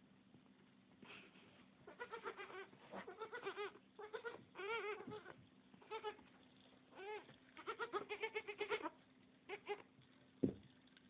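Several goats bleating, a string of quavering, overlapping calls, with a single sharp knock near the end.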